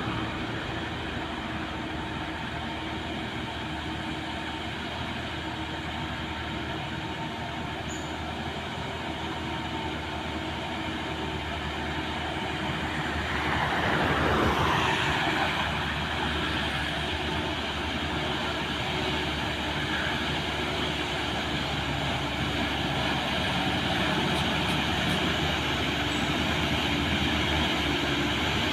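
Heavy diesel truck engine running steadily under load on a hill climb. About halfway through, a vehicle passes close by, a brief rush of sound that falls in pitch.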